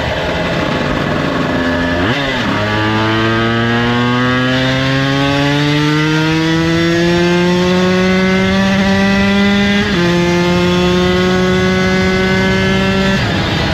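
Honda NSR250R's two-stroke V-twin running under way, its note climbing slowly as the bike speeds up, dropping sharply at a gear change about ten seconds in, then holding steady before easing off near the end. The owner says it is running rich on its 142 main jets.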